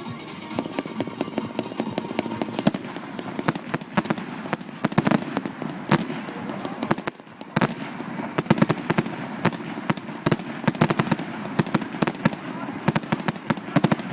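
Fireworks display: a dense run of sharp crackling bangs, many a second, with a short lull about seven seconds in.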